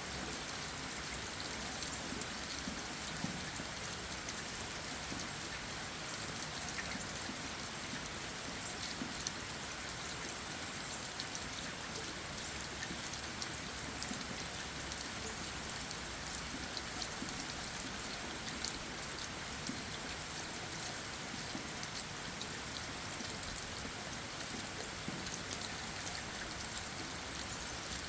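Steady rain falling on leaves and ground, a continuous hiss with many small drop ticks scattered through it.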